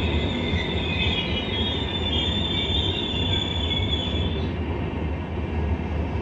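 Express train's sleeper coaches rolling past at speed: a steady rumble from the wheels on the rails, with a high squeal from the wheels that stops about four and a half seconds in.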